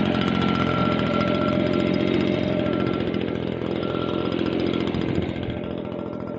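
STIHL BG56 leaf blower's small two-stroke engine running steadily with a fast, rattly firing note, getting somewhat quieter over the last second or so.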